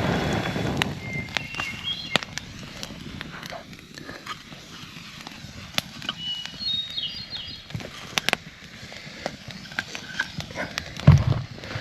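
Short high bird chirps and whistles over scattered clicks and knocks, with a heavier thump near the end.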